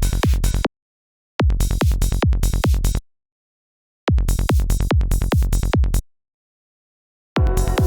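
Synthesized psytrance kick drum and rolling bass played back in four short bursts, stopping dead into silence between them. Each kick has a pitch that drops fast into the deep bass.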